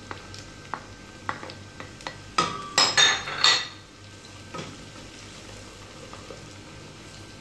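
Chopped onion and garlic sizzling in hot oil in a stainless steel pot, stirred with a wooden spatula, with scattered light knocks. A cluster of louder, ringing clinks against the pot comes between about two and a half and three and a half seconds in.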